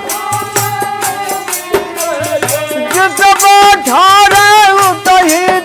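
Dehati bhajan music: a wavering melodic line over a steady beat of hand drum and jingling percussion.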